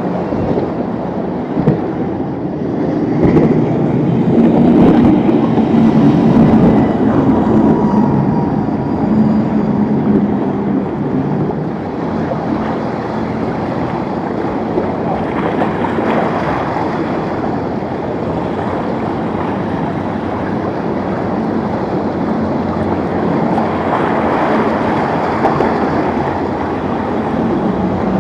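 Motorboat engines running through rough inlet water, with waves and wind noise on the microphone. The engine sound swells a few seconds in, then eases, and rises again near the end.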